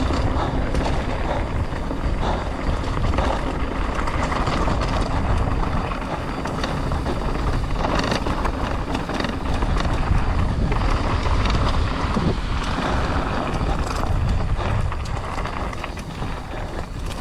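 Mountain bike descending a trail at speed: tyre and trail noise with frequent rattles and knocks over rough ground, and wind rushing on the microphone.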